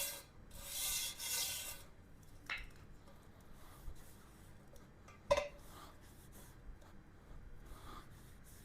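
Wire brush scrubbing the bead seat of a motorcycle wheel rim, clearing off loose rubber so the new tire will seal, for about the first two seconds. Then it goes quieter, with a short knock about two and a half seconds in and a louder knock just past five seconds.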